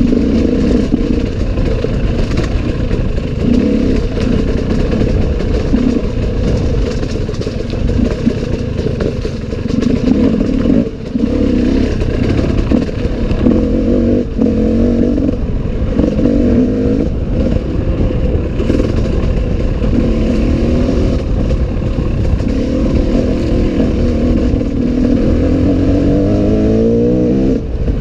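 Enduro motorcycle engine running hard off-road, its revs rising and falling every second or two, with a clear rising rev near the end.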